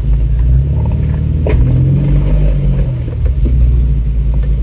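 Ford Bronco's engine running with a steady low rumble as it crawls along the trail after clambering over a downed tree, with a single knock about a second and a half in.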